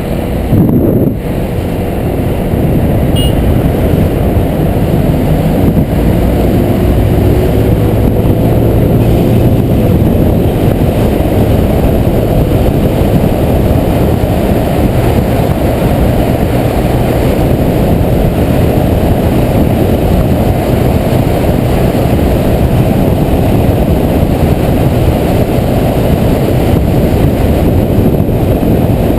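Honda PCX 125 scooter's single-cylinder four-stroke engine running while riding, under a steady loud rush of wind noise on the helmet or bike camera. A brief loud burst comes about a second in, and the engine pitch rises between about six and ten seconds in as the scooter accelerates.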